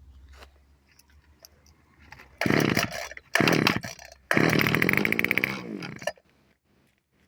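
Small two-stroke engine of a Shindaiwa HT220 hedge trimmer firing in three short bursts after a few light clicks. The last burst runs about two seconds and falls in pitch before it cuts out.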